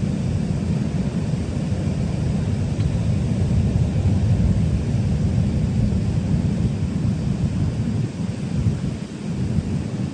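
Wind buffeting the microphone: a steady low rumble that flickers in strength, with a brief dip about nine seconds in.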